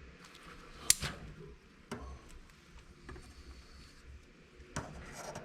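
A sharp click about a second in, then a few fainter clicks and knocks with light rustling, from handling during a snake feeding.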